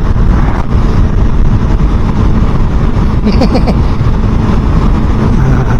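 Motorcycle riding along at road speed: steady engine and wind rumble buffeting the action-camera microphone.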